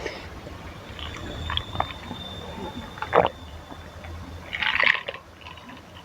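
Eating spicy Maggi instant noodles in soup: wet slurping and chewing with a few short clicks, the longest slurp near the end.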